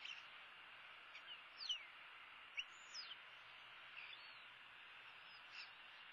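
Scattered short, high chirps from birds, each sweeping quickly down in pitch, about eight of them at irregular gaps, over a faint steady outdoor hiss.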